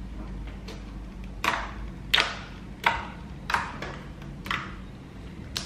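Clay slime being squeezed and poked by hand, giving a handful of short, sticky clicks and pops spaced about half a second to a second apart.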